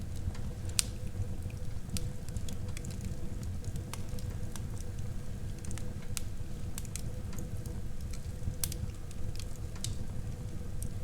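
Wood fire burning in a fireplace: a steady low rumble of flames with irregular sharp crackles and pops of burning wood, one louder pop a little under a second in.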